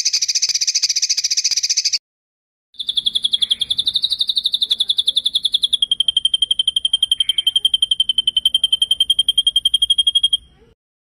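Songbird singing fast rolling trills: a short buzzy trill lasting about two seconds, then after a brief gap a long, very rapid, even trill. The long trill steps slightly lower in pitch midway and stops abruptly near the end.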